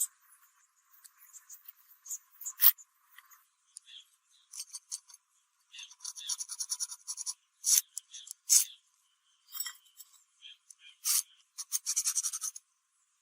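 Short runs of fast scraping strokes on metal, with a few sharp clicks between them; only the high end of the sound is there.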